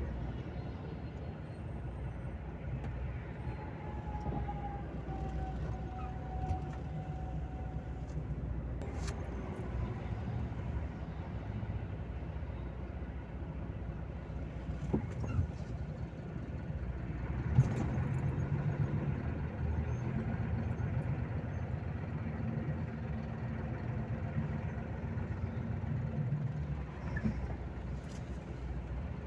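Volvo FH 460 truck engine running as the truck drives, a steady low drone that grows louder a little past halfway. A few short sharp clicks are heard along the way.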